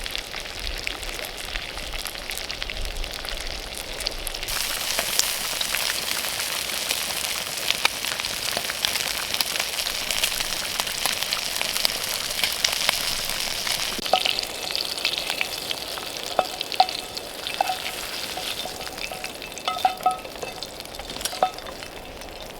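Sausages sizzling and frying in a metal canteen cup over a campfire: a steady hiss with scattered small pops and crackles.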